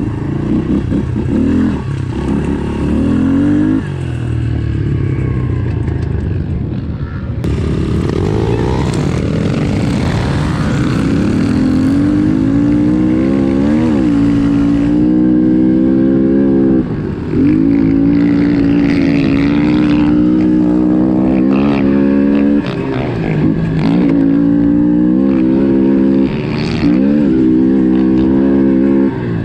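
Honda CRF110F pit bike's single-cylinder four-stroke engine revving hard and running through the gears. The pitch climbs and holds, then briefly cuts out at each throttle chop or shift, several times in the second half. Other engines overlap in the first few seconds.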